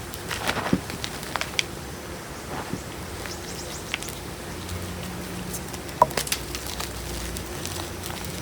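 Gym chalk being crushed between the fingers: irregular crunches and crackles, the sharpest about six seconds in.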